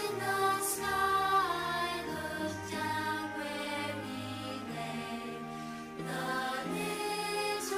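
Choir singing a slow Christmas carol, with long held notes that change every second or two.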